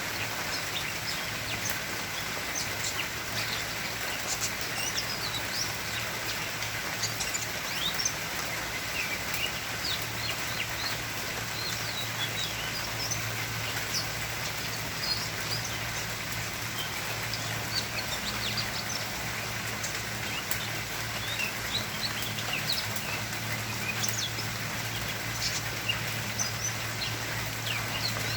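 Small birds chirping: many short, high chirps and quick rising and falling calls scattered throughout, over a steady low hum.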